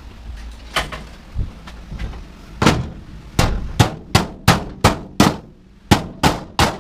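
Hammer blows on a stubborn stuck part of a washer/dryer combo being taken apart for scrap. A single sharp strike comes about a second in, then a run of about ten blows from nearly three seconds in, roughly three a second.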